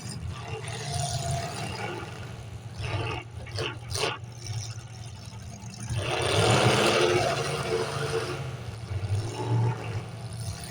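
Demolition derby cars' engines running, with a few sharp knocks about three to four seconds in and a louder, noisier stretch starting about six seconds in.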